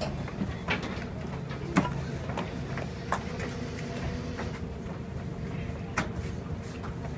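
Steady low hum of idling trains standing side by side at a station platform, broken by scattered sharp knocks and clicks as passengers board. The loudest knock comes a little under two seconds in, and another about six seconds in.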